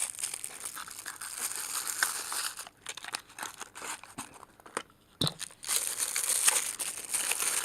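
Plastic packaging crinkling and rustling as it is handled, quieter for a couple of seconds in the middle, with a soft knock about five seconds in.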